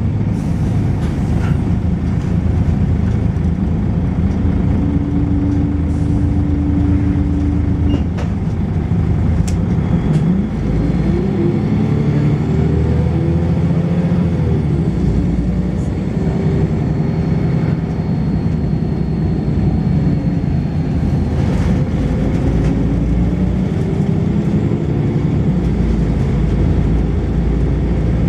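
Volvo B10BLE single-deck bus on the move, heard on board: engine and ZF automatic gearbox running under a steady rumble. Engine notes rise through gear changes about ten seconds in, and a faint high-pitched whine sounds for about ten seconds midway.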